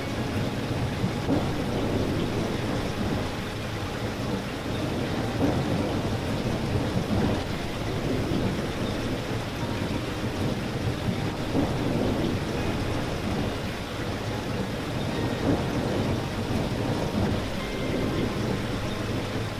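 Steady rain falling, a dense, even patter of drops with most of its weight in a low rumble underneath.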